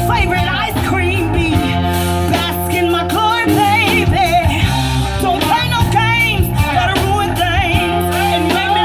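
Live band playing with a singer, the voice wavering in vibrato over steady bass and guitar.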